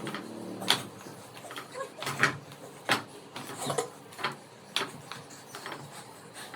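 A string of sharp, irregular knocks and taps, roughly one a second.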